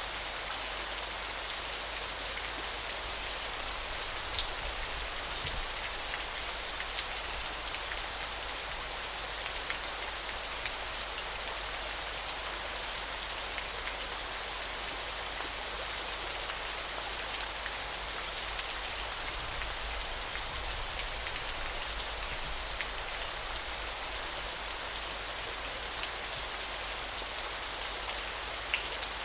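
Flowing river water making a steady rushing hiss. A thin, high buzz comes and goes over it: three short spells in the first few seconds, then a longer one from about two-thirds of the way through.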